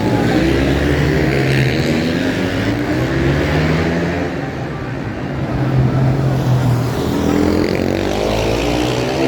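Supermotard racing motorcycles going past with their engines revving hard. The engine pitch climbs through the first few seconds, drops, then climbs again near the end.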